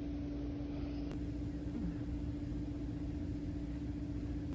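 Steady road rumble inside a moving car, with a constant low hum under it.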